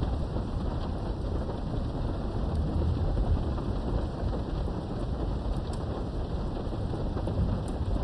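Steady rain with a low, rolling rumble of thunder that swells about three seconds in, and a few scattered drops ticking.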